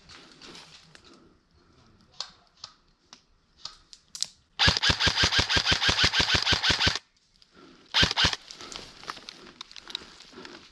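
Electric airsoft rifle, an AK-pattern replica, firing on full auto: one burst of about two and a half seconds with evenly spaced shots, then a short burst of two or three shots about a second later. Light clicks and handling noises come before them.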